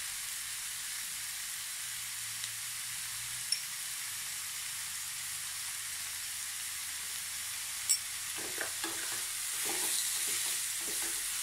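Masala-coated chicken pieces frying uncovered over a high flame in a nonstick pan: a steady sizzle with a couple of sharp pops. In the last few seconds a wooden spatula stirs and scrapes the pieces around the pan, and the sizzle grows louder.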